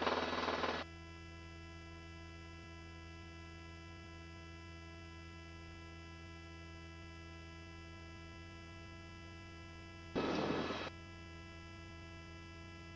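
Steady electrical hum made of several held tones, likely on the helicopter's headset intercom feed, broken by two short bursts of rushing noise, one at the start and one about ten seconds in.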